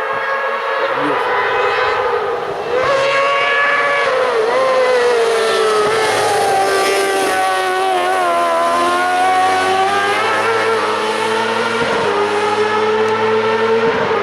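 Hill-climb race car engine running hard, its pitch climbing and dropping again and again as it accelerates and changes gear, with a brief dip about three seconds in.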